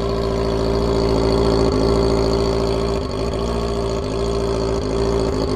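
Kawasaki ZX-25R's 250 cc inline-four running at steady revs through an Akrapovic GP Evolution aftermarket exhaust, loud, with brief dips in the note about every second and a half.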